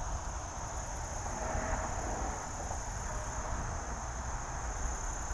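Insects trilling steadily in one high, unbroken tone, over a faint low background rush.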